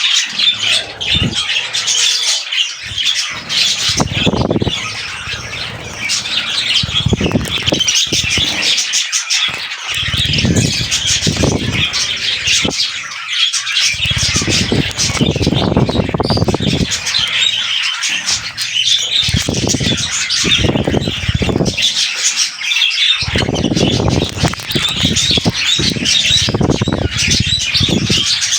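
Budgerigars chattering and squawking continuously in dense, high warbling chatter, with repeated stretches of low rustling lasting a second or more.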